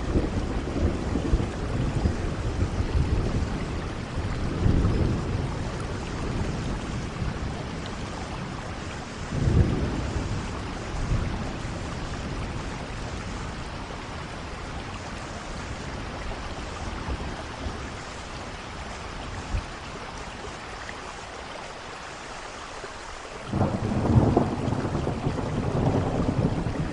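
Steady rain with rolling thunder: low rumbles near the start, about five and about ten seconds in, then a quieter stretch of rain alone before a loud thunder roll breaks in about 23 seconds in.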